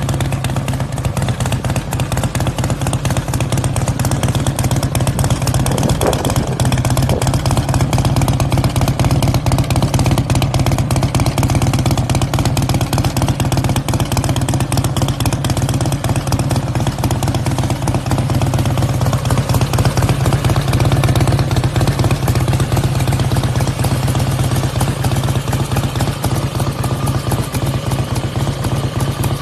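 Custom Harley-Davidson's V-twin engine running steadily through a loud aftermarket exhaust, a low, even pulsing exhaust note that holds the same pace throughout.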